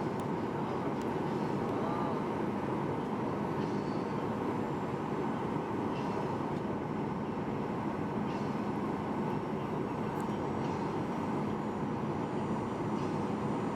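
Steady cabin noise of a Boeing 737-800 airliner heard from inside the passenger cabin: an even roar of engines and airflow.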